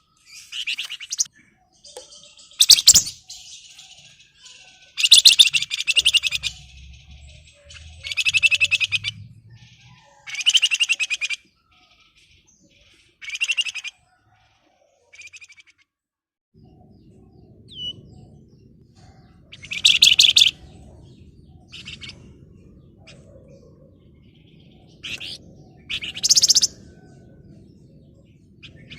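Flamboyan songbird singing in repeated short bursts of fast, buzzing trills and scratchy chatter, each burst under a second long, with pauses between them and a long gap in the middle. A faint low hum of background noise comes in about halfway through.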